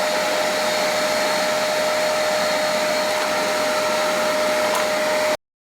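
A vacuum cleaner and a tool and cutter grinder running together: a loud, steady rush with a steady hum-like tone through it, while a gear hob is sharpened. It cuts off suddenly near the end.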